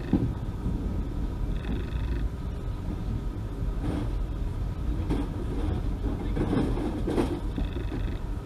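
A vehicle running with a steady low rumble. Short high ringing tones come twice, and faint clicks now and then.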